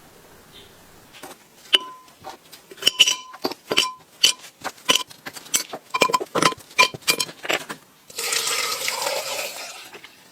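Small metal parts and tools clinking and tapping against one another and a hard surface, in a quick irregular run of sharp, ringing clinks. Near the end comes about two seconds of steady hissing.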